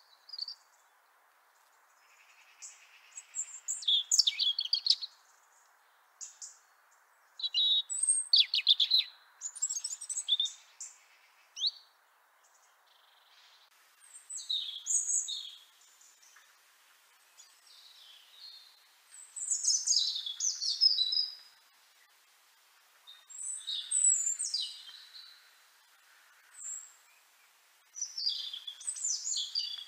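European robin singing a string of short phrases of high, thin, quickly changing notes, each a second or two long and separated by pauses, over a faint steady background hiss.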